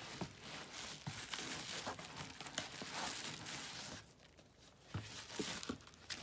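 Packaging crinkling and rustling as it is handled, with small clicks and ticks, for about four seconds; then it goes quieter, with a few light knocks near the end.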